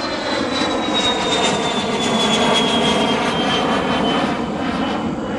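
Airplane flying past, its engine noise swelling to a peak about halfway and easing off, with a high whine that falls steadily in pitch as it goes by.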